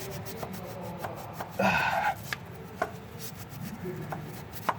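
Scotch-Brite abrasive pad wrapped on a screwdriver scrubbing hard inside a corroded aluminium EGR valve bore: a run of short, uneven scraping strokes. It is honing carbon and white oxidation out of the bore down to clean aluminium. A brief voice sound comes about a third of the way in.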